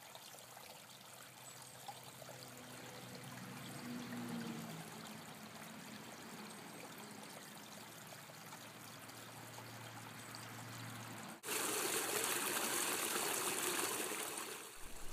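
Water trickling, faint at first, then louder and fuller from about eleven seconds in after an abrupt change.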